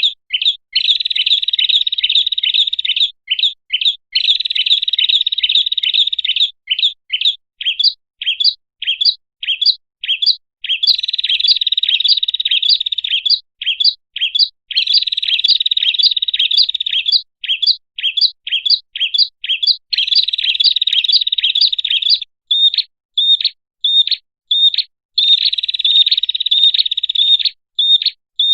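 Prenjak (prinia) calls played as a trapping lure: fast chattering runs of sharp, high notes lasting a few seconds each. These alternate with stretches of separate, evenly spaced chips.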